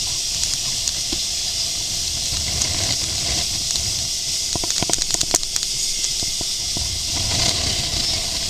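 Boat under way: a steady hiss of wind and water spray with a low rumble beneath, and a few sharp knocks about five seconds in.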